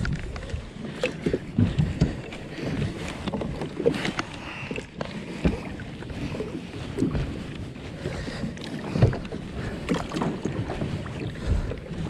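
Water splashing and lapping around a kayak, with irregular knocks and bumps against the hull.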